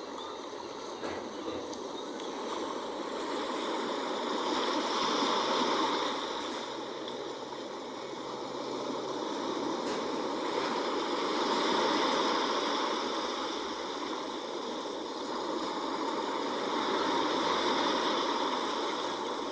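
Sea waves washing onto the shore, a continuous rushing surf that swells and ebbs about every six seconds.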